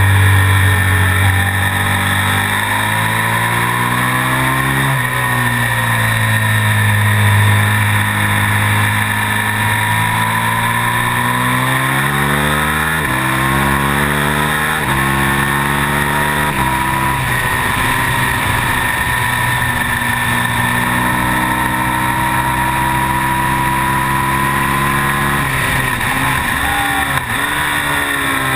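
KTM Super Duke's V-twin engine racing under load, heard onboard over wind rush. The revs swing down into corners and climb out again, with a quick run of upshifts about halfway, each a rise in pitch cut by a drop.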